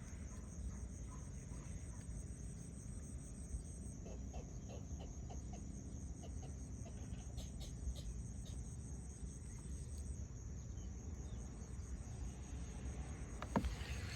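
Steady high-pitched insect chorus, a pulsing drone of crickets, over a low rumble, with a sharp click near the end.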